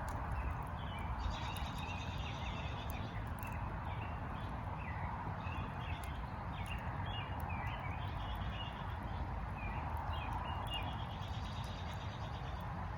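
A flock of small birds chirping and twittering continuously, with occasional pops and crackles from burning firewood over a steady low rustle.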